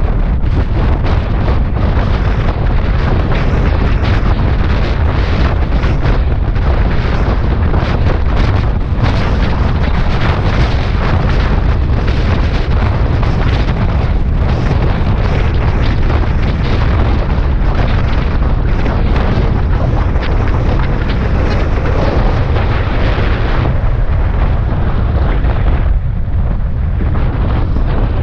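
Heavy wind buffeting on the microphone of a Suzuki Bandit 650S motorcycle riding at highway speed, with the bike's engine and road noise mixed into a steady loud rumble.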